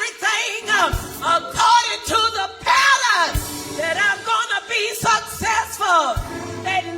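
Gospel church music with singing voices gliding up and down, and a few heavy low drum hits.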